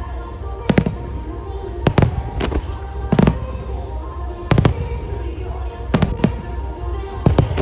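Aerial firework shells bursting overhead in a music-synchronised starmine, about eight sharp booms at uneven intervals, some in quick pairs, over a pop song playing from loudspeakers.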